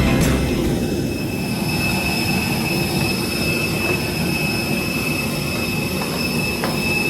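Steady machine hum with a level high-pitched whine over it, the ground noise of an airliner parked at the gate during boarding.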